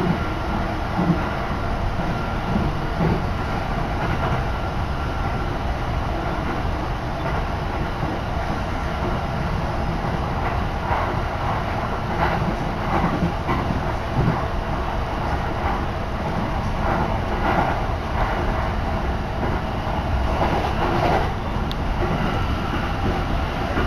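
Passenger train running along the line, heard from inside the carriage: a steady rumble of wheels on the rails.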